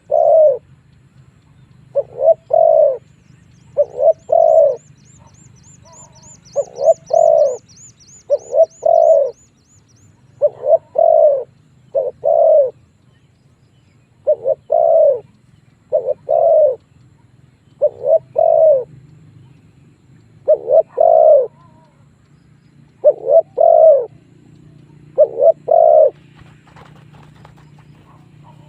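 Spotted dove cooing over and over in short phrases of paired coos, a new phrase about every two seconds. This is the decoy bird's call, used to lure wild spotted doves in to fight. A rapid high trill runs alongside the coos for a few seconds early on.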